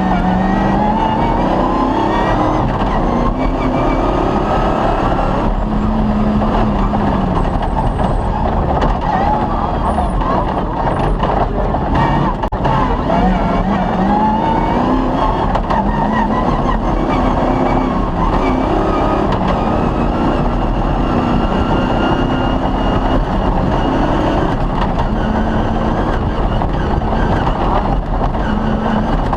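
Off-road rally vehicle's engine running hard at stage speed, its pitch repeatedly climbing and then dropping back as it revs up through the gears, with occasional knocks from the rough ground.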